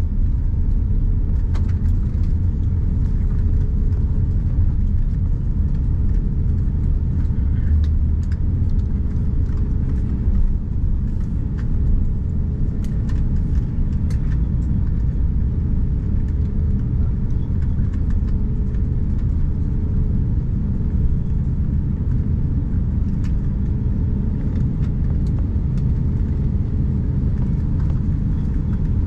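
Airbus A350-900 cabin noise: a steady low rumble with faint engine tones, and now and then small clicks and rattles from the cabin.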